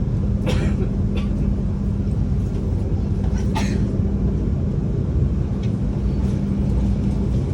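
Steady low rumble of a moving train heard from inside the carriage, with a constant low hum and a couple of faint brief clicks about half a second and three and a half seconds in.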